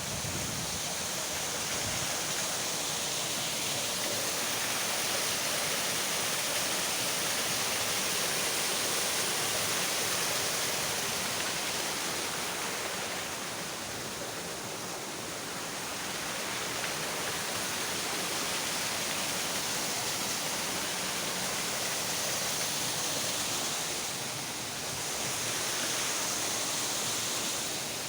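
Steady rushing of flowing water, an even hiss with a slight dip in level twice.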